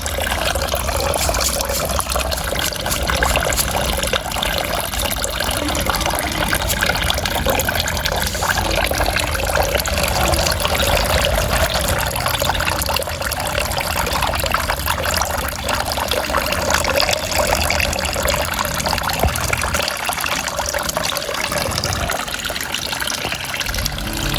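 Water pouring steadily from a bamboo spout into a garden pond, a continuous trickle.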